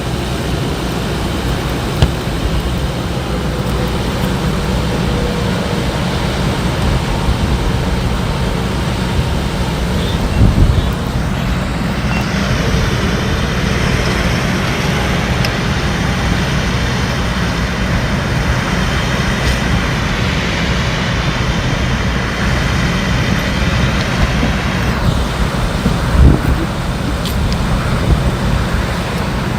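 Steady highway traffic rumble, with a vehicle going past in the middle and a few short thumps.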